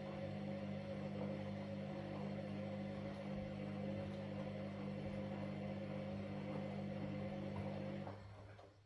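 Washing machine running with a steady motor hum that stops abruptly about eight seconds in, dying away within a second.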